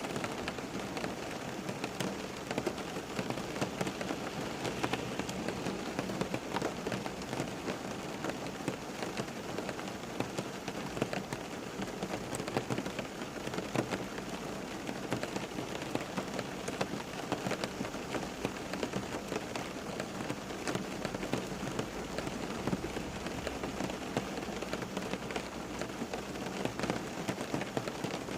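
Steady rain falling on a surface, with a dense patter of individual drops.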